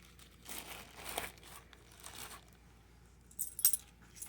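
Rustling and crinkling as keepsakes are handled and rummaged through, in a few short bursts. Near the end come a few quick, bright metallic clinks, the start of a dog collar's tags jingling as it is picked up.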